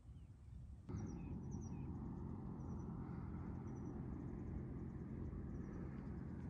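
Small birds chirping in short, high, repeated notes over a steady low rumble of wind on the microphone, which starts abruptly about a second in.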